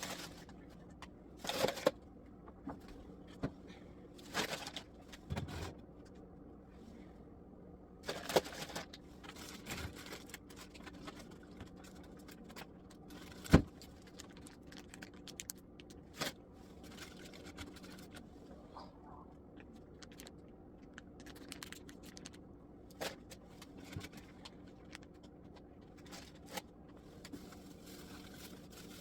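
Scattered clatter, scrapes and knocks of food containers and fridge shelves being handled while a refrigerator is cleaned out, over a faint steady low hum. One sharp knock stands out about halfway through.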